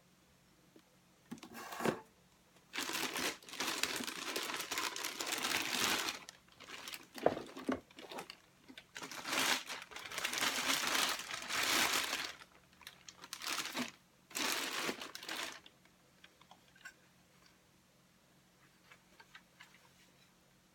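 Crinkling and crumpling, as of paper or plastic packaging being handled, in several bursts of one to three seconds, followed by a few faint clicks near the end.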